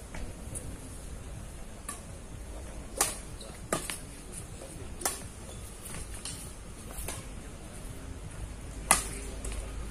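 A badminton rally: rackets strike the shuttlecock with sharp pops, five hits about one to two seconds apart. Strong wind rumbles on the microphone throughout.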